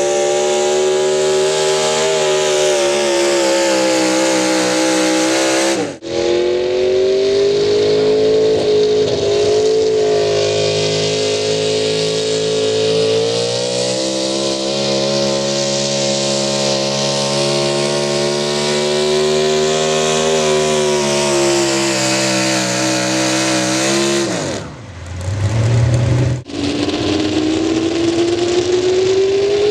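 A pulling vehicle's engine held at high revs under heavy load, its pitch wavering as it works. It breaks off briefly about six seconds in. Near the end the revs fall sharply before the sound cuts and comes back.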